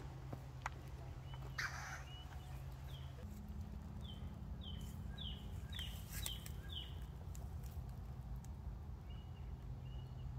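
A songbird singing a quick run of about six short, downward-slurred whistled notes a few seconds in, with a few scattered single notes before and after. A brief rustle sounds early on, over a steady low hum.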